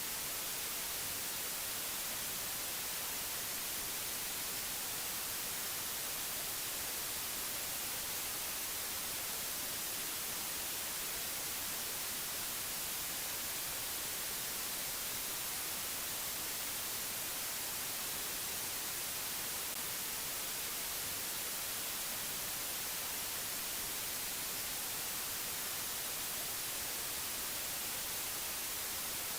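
Steady, unchanging hiss like static, brighter toward the high end, with no tones or breaks.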